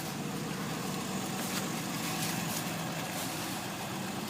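1990 Cadillac engine idling steadily after a cold start, running smoothly with no misses.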